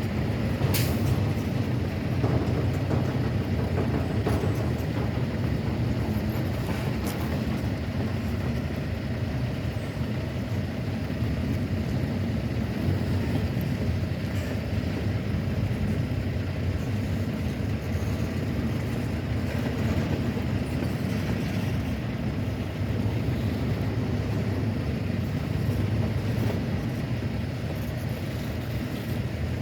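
Norfolk Southern freight train giving a steady low rumble, with a few sharp clicks in the first several seconds.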